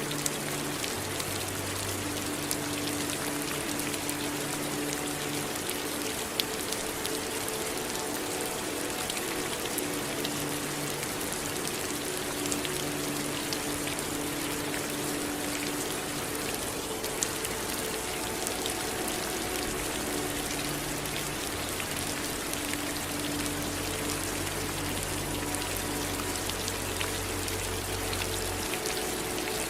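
Steady rain falling, an even hiss with scattered sharper drop ticks. Under it run low held tones that shift every few seconds.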